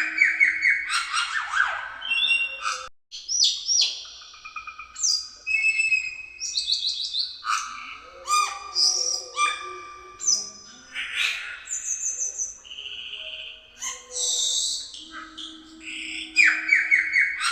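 Cucak keling singing a fast, varied song of loud whistles, chirps and rapid trills, phrase after phrase with hardly a pause: a gacor (in full song) bird used as a pancingan recording to set other caged birds singing.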